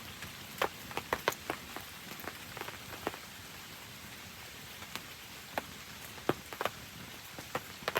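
Campfire burning in steady rain: an even hiss of rain with sharp crackles and pops at irregular intervals, a few each second.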